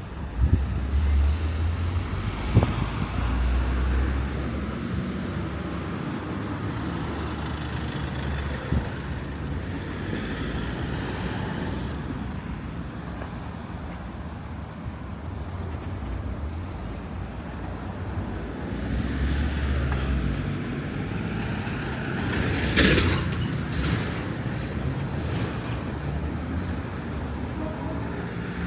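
Street traffic: motor vehicles running and passing close by, with a heavy low engine rumble near the start and again about two-thirds of the way through. A brief loud hiss comes about three-quarters of the way through.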